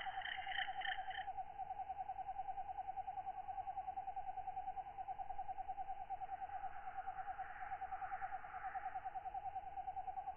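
Tropical night chorus of katydids and other night callers. A steady, fast-pulsing trill runs throughout, and higher rasping katydid calls are heard for about the first second and more faintly past the middle.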